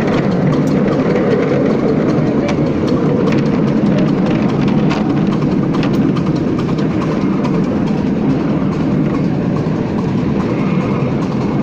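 Miniature railway train running along the track, heard from a carriage: a steady rumble of wheels on rail with scattered clicks and clatter.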